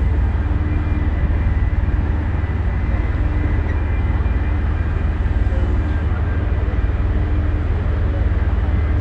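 Steady, loud low rumble of a car-ferry under way, its engines droning under a constant wash of noise, with a faint hum that comes and goes.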